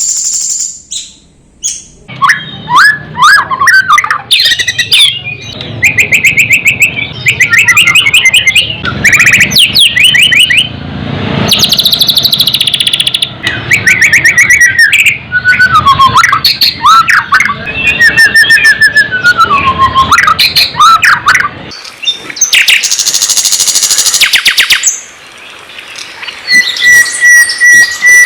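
Songbird song, loud and varied: quick trills, whistled up-and-down glides and fast rattling chatter follow one another almost without a break, starting about two seconds in. Near the end comes a steady held whistle.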